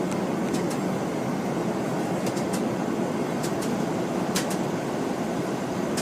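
Steady rumble of an Airbus A330-300's cabin in flight, from engine and airflow noise, with a few faint clicks and rattles from the cabin fittings.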